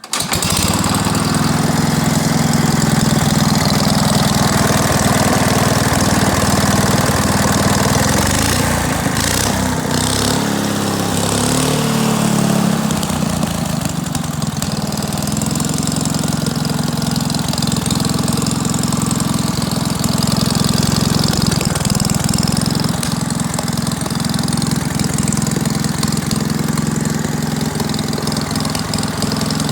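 Wisconsin TFD 14 HP engine running steadily; its pitch shifts for a few seconds around ten seconds in, then it settles back to an even run.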